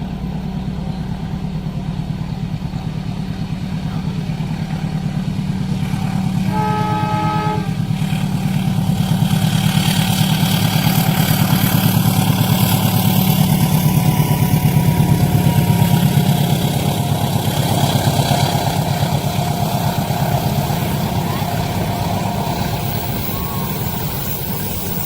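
A diesel-hauled train passes: a low engine rumble and the running of wheels on rail swell to a peak and slowly fade. A short horn blast sounds about seven seconds in.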